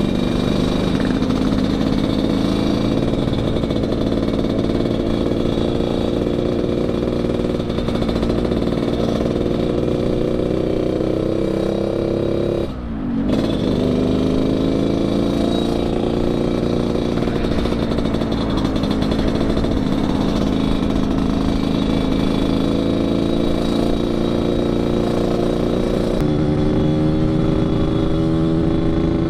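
Yamaha RX-King's 135 cc two-stroke single-cylinder engine, tuned with an under-belly expansion-chamber exhaust for a raspy 'ngorok' note, running under way with its pitch slowly climbing. About halfway through the note drops off briefly as the throttle is eased, then picks up and climbs again.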